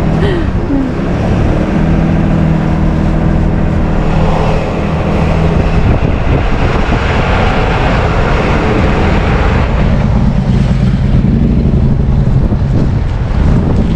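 Tow truck's engine running steadily with road noise, heard from inside the cab as it moves slowly in traffic.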